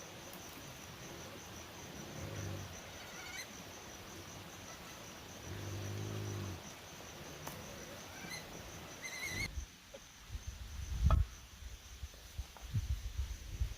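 Insects trilling steadily in the background, with two low, drawn-out calls about two and six seconds in. The insect sound drops away about nine and a half seconds in, and a string of low thumps follows.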